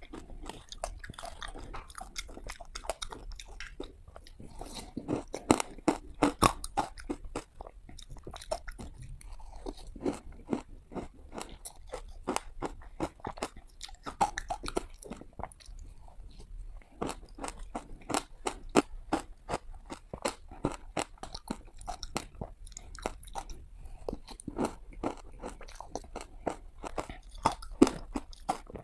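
Close-up bites into hard ice: a fast, irregular run of sharp cracks and crunches as the ice is bitten and crushed between the teeth.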